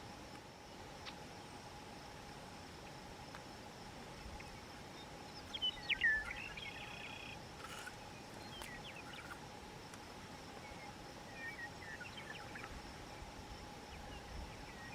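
Outdoor ambience: scattered short bird chirps and calls, the loudest about six seconds in, over a faint steady hum.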